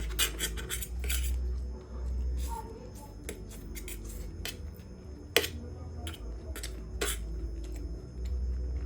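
Eating utensils clicking and scraping against a bowl during a meal of noodles and egg soup: a string of small clicks, with one sharp clink about five seconds in.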